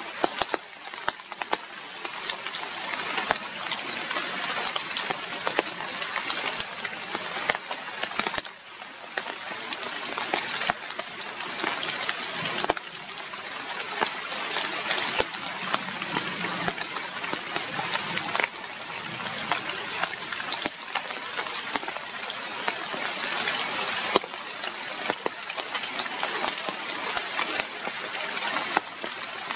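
Rain falling steadily: an even hiss with many scattered sharp ticks of drops striking nearby surfaces.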